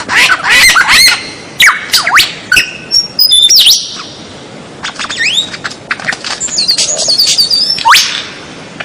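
White-rumped shama (murai batu) singing loudly: a varied run of quick whistles that sweep up and down, mixed with sharp chipping notes, with a short pause about halfway through.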